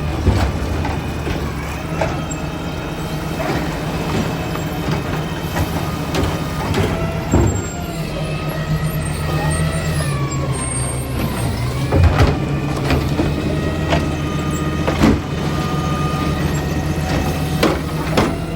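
Diesel engine of a refuse truck running under load while its hydraulic packer works, with the pitch rising and falling around the middle and several sharp metallic clanks spread through, one loud pair about two-thirds of the way in.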